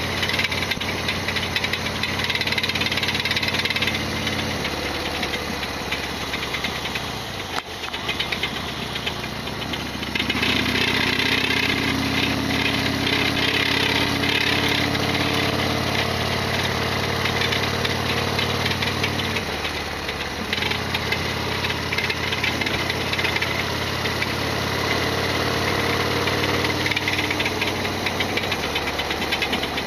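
Harley-Davidson Sportster XL1200R's air-cooled 1200 cc V-twin running under way. Its note falls and picks up again several times as the throttle and gears change, with the loud mechanical clatter and abnormal noise that the owner complains of.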